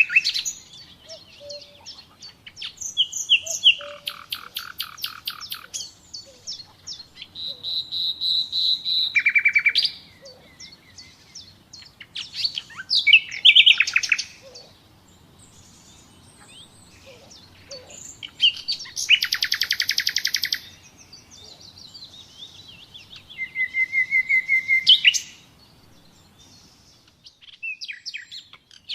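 Common nightingale singing: a series of varied phrases, each a fast run of repeated notes, rattles or a held whistle, separated by pauses of a few seconds.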